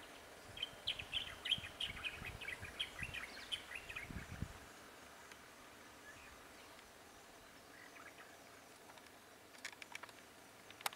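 Bird chirping, a quick run of short calls for about the first four seconds over faint low rumbles, then only faint background noise with a few soft clicks near the end.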